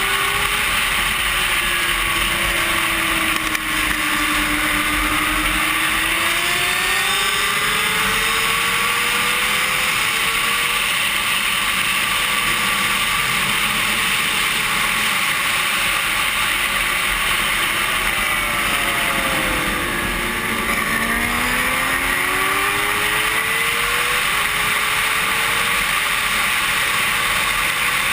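Racing motorcycle engine heard from an onboard camera under heavy wind noise on the microphone: the revs fall and rise as the bike slows and accelerates, with a deep dip past the middle followed by quick successive upshifts near the end.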